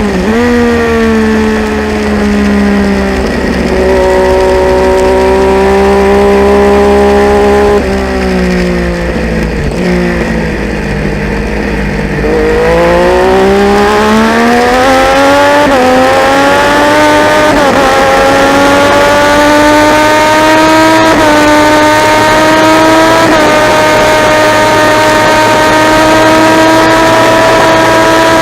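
Triumph Daytona 675 inline three-cylinder race bike engine under hard use. Revs fall in steps early on as it slows for a corner and sit low for a couple of seconds. Then it accelerates hard, the pitch climbing with brief dips at each upshift, and holds high near the end.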